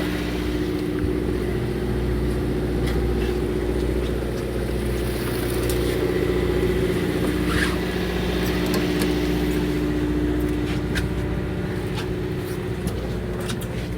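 Fishing boat's engine running with a steady hum. A few light clicks come near the end.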